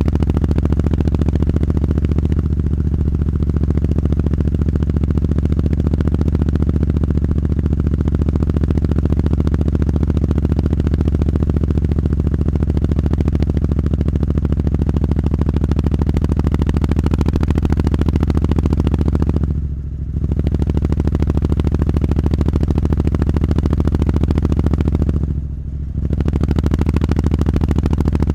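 Triumph Street Scrambler's parallel-twin engine idling steadily through a Zard aftermarket exhaust. The sound dips briefly twice, about two-thirds of the way in and again near the end.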